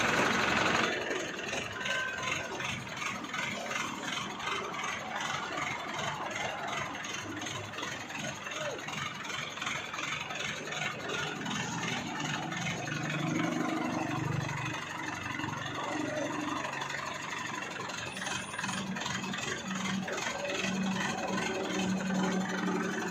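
A vehicle engine running steadily, with people's voices faintly in the background.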